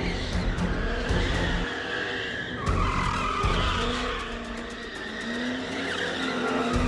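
A car's engine running while its tyres squeal and skid on the road surface, with a squeal setting in about a third of the way through.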